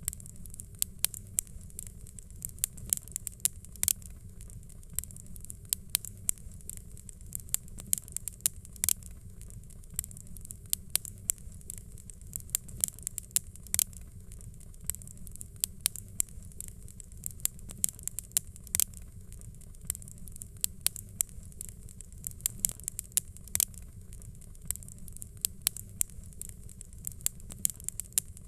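Fireplace crackling, with frequent irregular sharp pops and snaps over a low steady rumble.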